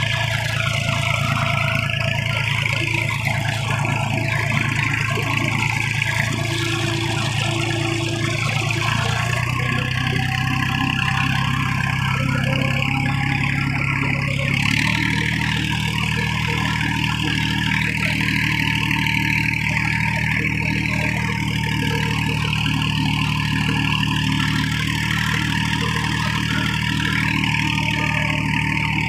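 Diesel tractor engine running steadily while pulling a cultivator through a field. Its note shifts slightly about nine seconds in and changes more clearly near fifteen seconds.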